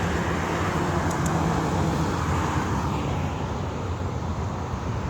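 Road traffic passing close by: a vehicle's engine hum over steady tyre and road noise.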